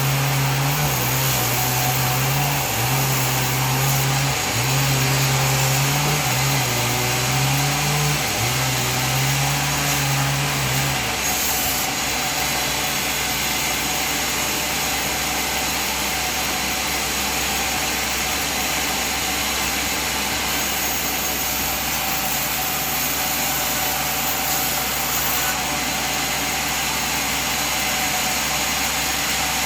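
Sawmill machine running with a steady, loud noise. A low hum under it shifts back and forth in pitch for the first third or so, then holds steady.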